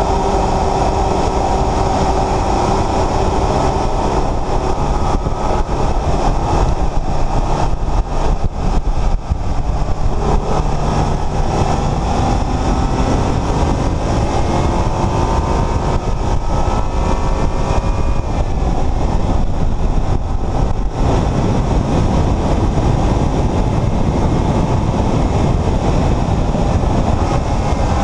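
Porsche Macan S's twin-turbo V6 running under load on a race track, with heavy road and wind rush. The engine note sinks a little at first, then climbs steadily for several seconds from about ten seconds in.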